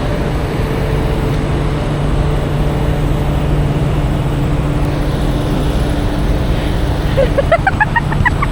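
Steady vehicle and roadway noise with a constant low hum, typical of idling trucks and passing traffic. Near the end comes a short run of quick chirps that climb in pitch.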